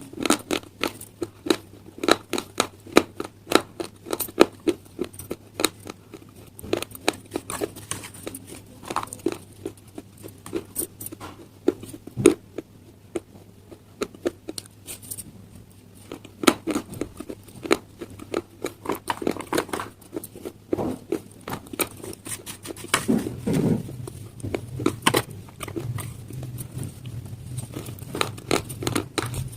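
Close-up chewing of slate stone pieces: dense, irregular sharp crunches and cracks as the stone breaks between the teeth.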